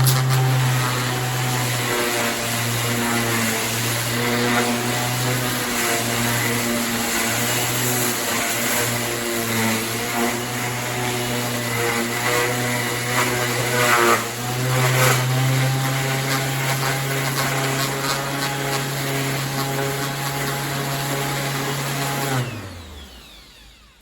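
Vistreck 150 mm 450 W corded random orbital sander running at a steady speed, with a brief dip a little past halfway. About 22 seconds in it is switched off, and the motor winds down and stops.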